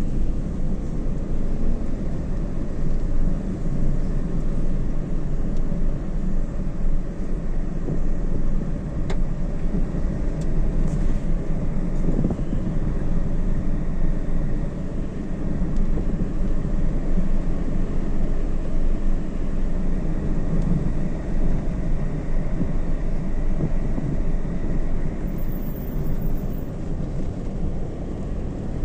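Steady rumble of a vehicle on the move, engine and road noise running evenly.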